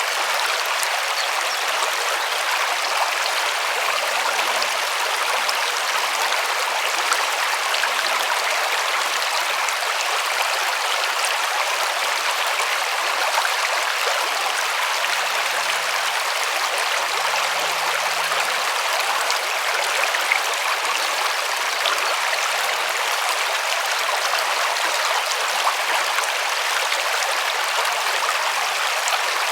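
River water rushing and splashing steadily over stones, an even hiss without pauses.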